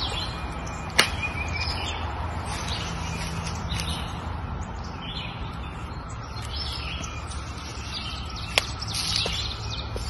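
Birds chirping over a steady low background hum, with two sharp clicks, one about a second in and one near the end.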